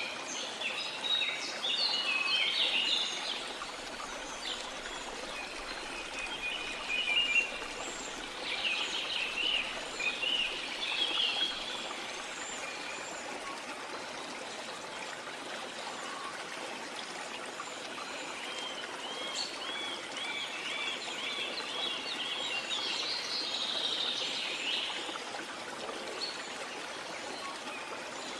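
Several birds singing and calling in bursts, including a run of quick repeated notes about two-thirds of the way in, over the steady rush of a waterfall.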